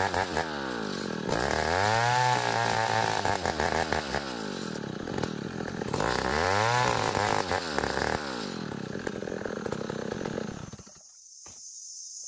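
Chainsaw sawing ulin (Bornean ironwood), its engine pitch swelling up and sinking back twice as it works through the cut. It shuts off near the end, leaving a steady insect buzz.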